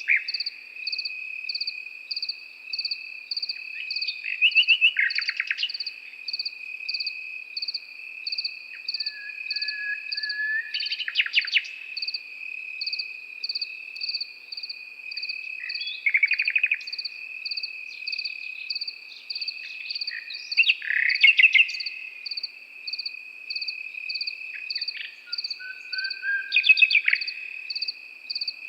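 Nightingale singing short phrases every few seconds, rapid trills with an occasional low whistle, over crickets: one steady continuous trill and another chirping evenly about one and a half times a second.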